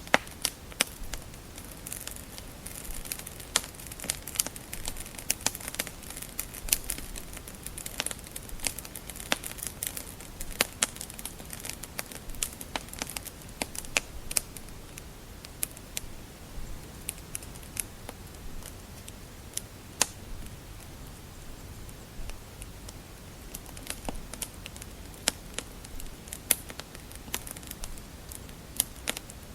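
Wood fire crackling: irregular sharp pops and snaps over a soft steady hiss, the sound of burning logs.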